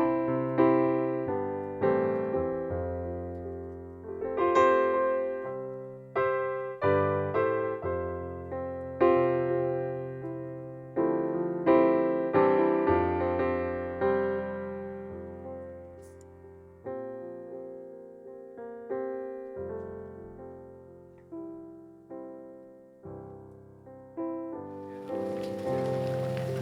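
Solo piano music: a slow, gentle passage of chords and melody, each note struck and left to fade.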